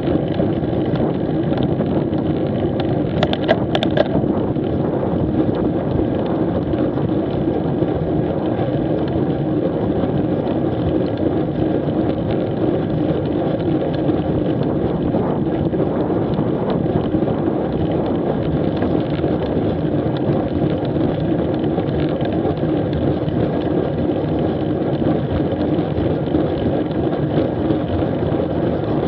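Steady wind rush and road noise from a street bike under way, picked up by an action camera mounted on it, with a brief cluster of sharp clicks about three to four seconds in.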